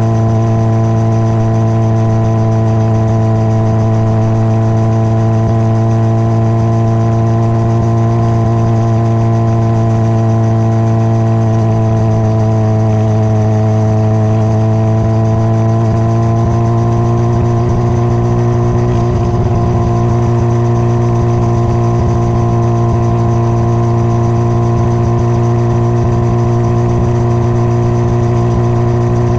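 Honda CBR600RR inline-four engine idling steadily, its pitch holding nearly level, dipping slightly about halfway through and picking up a touch soon after.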